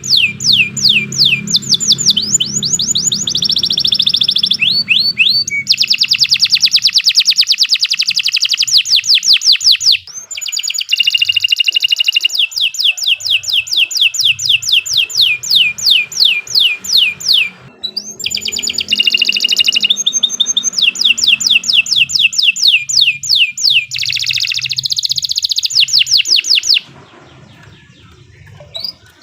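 Domestic canary singing a long, loud song of rapid trills, each one a fast run of downward-sweeping notes, switching to a new trill every few seconds with brief breaks. The song stops about 27 seconds in.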